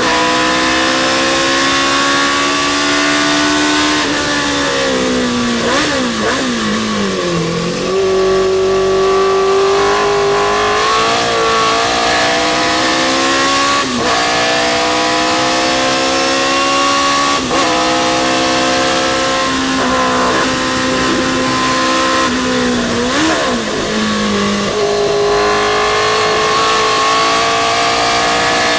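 Historic sports racing car's engine at race pace, its pitch climbing under hard acceleration and dropping sharply at each upshift. Twice, about five and twenty-three seconds in, it falls away with throttle blips as the car brakes and changes down for a corner.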